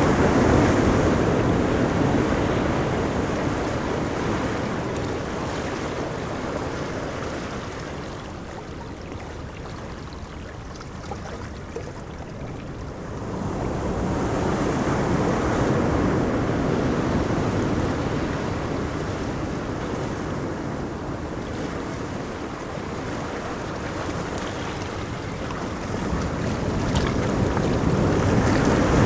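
Ocean surf: waves breaking and washing up a beach as a steady rush that swells and ebbs. There is a louder surge at the start, another about 14 seconds in, and another near the end.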